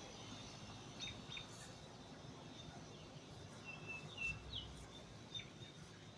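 Birds chirping faintly in the background: a few short chirps about a second in, then a handful of whistled notes around four seconds in, over a faint steady outdoor background noise.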